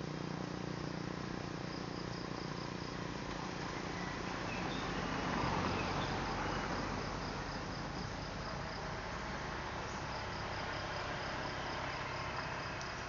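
Insects, crickets by their sound, chirping in a high, even, regular pulse over a steady background hiss. A broader rushing noise swells and fades about five to seven seconds in, the loudest moment.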